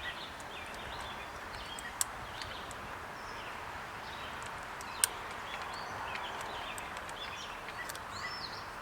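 Birds chirping over a steady outdoor hiss, with two sharp clicks, one about two seconds in and one about five seconds in.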